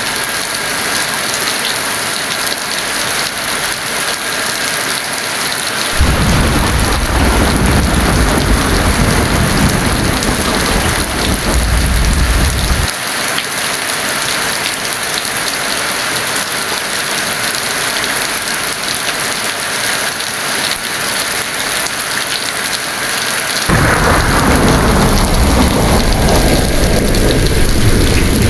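Heavy rain falling steadily, with two deep rolls of thunder. The first begins about six seconds in and lasts around seven seconds before cutting off suddenly; the second starts near the end.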